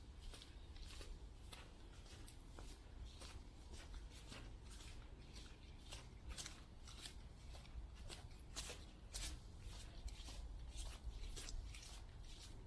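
Faint footsteps crunching on a damp forest trail, a series of short crisp steps about two a second, over a low rumble.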